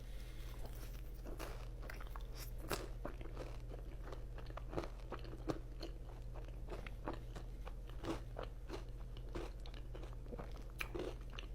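Close-miked biting and chewing of crisp fries, a steady run of small crunches that come irregularly, over a steady low electrical hum.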